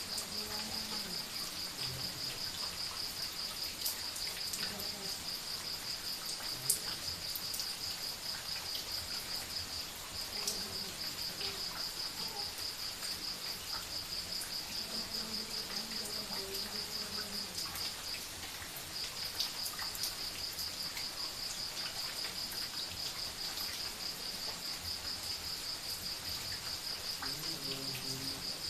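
A cricket chirping in a rapid, even pulsing trill that breaks off briefly twice, against a faint night background.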